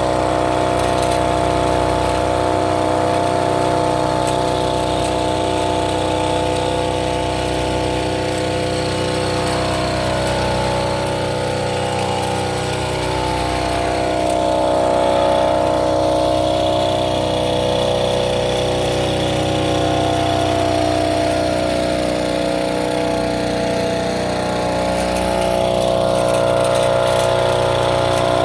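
Small engine of a farm rail monorail running steadily; its pitch slides down and settles a little past the middle.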